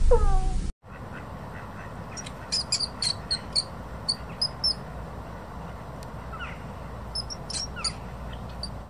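A guinea pig's short falling squeal that cuts off abruptly under a second in. It is followed, over a steady hiss, by two clusters of quick, high chirps and a couple of falling calls.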